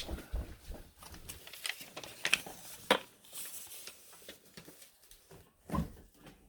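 Scattered light clicks, taps and rustles of objects being handled, with a sharper knock about three seconds in and a dull thud near the end.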